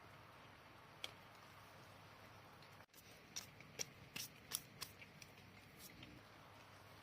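Quiet outdoor background hiss with a single small click about a second in, then a cluster of light, sharp clicks and crackles around the middle.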